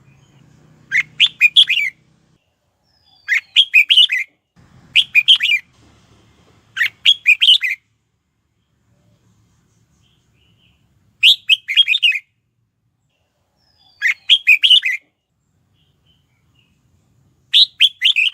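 Red-whiskered bulbul singing: seven short, loud, warbling phrases of about a second each, with pauses of one to three seconds between them.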